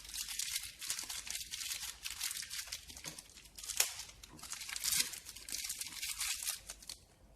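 Irregular scraping and rustling as washing-machine bearing and hub parts are handled, with two sharp clicks about four and five seconds in.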